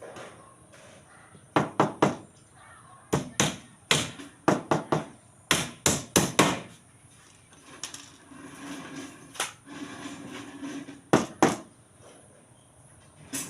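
Irregular hammer blows, sharp strikes coming in quick clusters of two or three with short gaps between, and a quieter stretch about two thirds of the way through.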